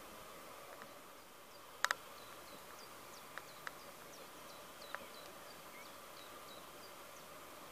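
Small birds chirping in the background: a run of short, high, falling notes from about two to five seconds in, over a faint steady hum. A sharp double click about two seconds in, followed by a few softer ticks.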